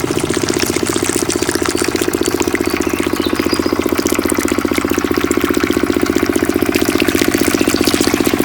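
Miniature diesel engine running steadily at idle with a fast, even chugging beat.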